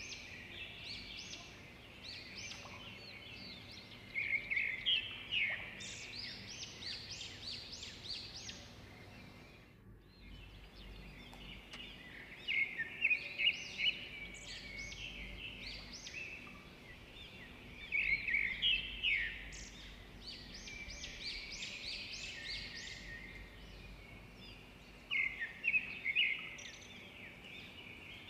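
Small birds chirping and twittering in repeated bursts of quick high notes, with a short break about ten seconds in.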